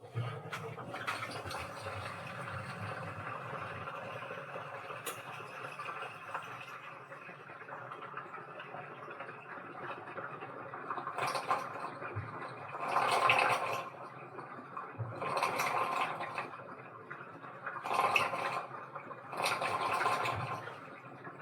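Washing machine at work: water rushes in steadily, starting abruptly. From about halfway the drum turns back and forth, and the water and laundry slosh in surges about every two seconds.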